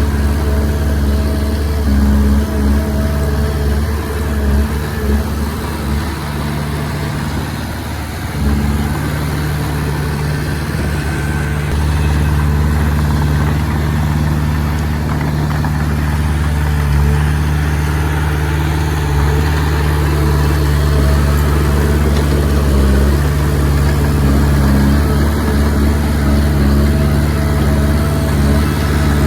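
Diesel engine of a Komatsu D20P bulldozer running steadily under work. Its pitch shifts and it briefly drops in level about eight seconds in, then runs on evenly.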